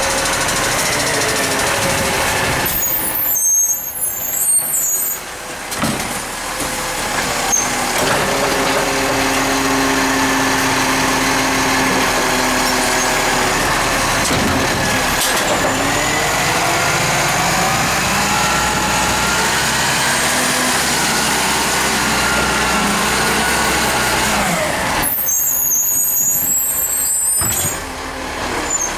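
Recycling truck's engine running, its pitch rising and falling as it works.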